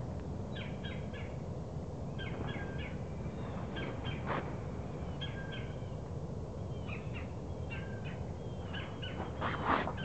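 Birds calling again and again: clusters of two or three short, sharp notes every second or so, with a louder call near the end, over a steady low rumble.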